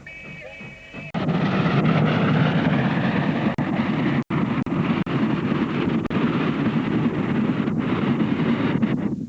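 A moment of music, then an abrupt cut to the loud, steady running noise of a steam train on the move.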